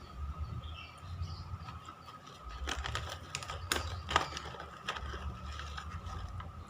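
Battery-powered toy robot cat's small geared motor running with a steady whine, and a run of sharp clicking, ratchet-like gear noise in the middle as its mechanism drives it along.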